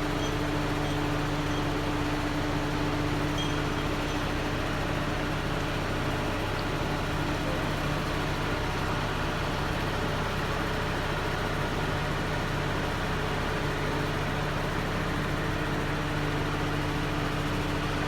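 A vehicle engine running steadily at an unchanging speed: a constant hum with a few held tones.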